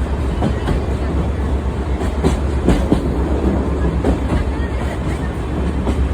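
Sagano Scenic Railway sightseeing trolley train running, heard from on board: a steady low rumble with irregular clacks and knocks from the wheels passing over the rail joints.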